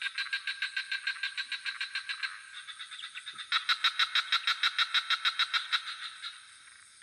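Frogs calling in rapid pulsed trills, about six pulses a second, in two bouts with a short break between them. The second bout fades away near the end.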